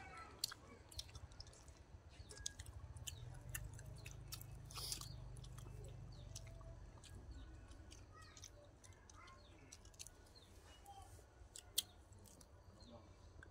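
Close-up chewing and biting of grilled chicken and raw vegetables, with many small mouth clicks and crunches. There is a brief hiss about five seconds in and a sharp click near the end.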